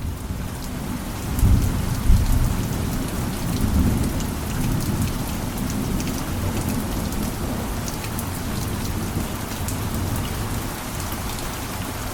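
Steady heavy rain with scattered small sharp ticks, under a low rumble of thunder that swells about one and a half seconds in and rolls on more quietly after.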